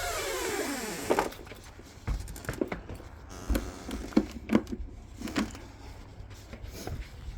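Scattered knocks and clunks of gear and cable being handled and carried, roughly one a second, over a low rumble; a falling whine fades out in the first second.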